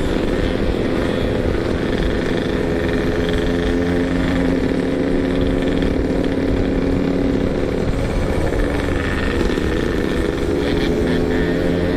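Yamaha RX-King two-stroke motorcycle engine running at a light, steady throttle while riding, with wind rumble on the microphone. The engine note drops about nine seconds in, then climbs again near the end.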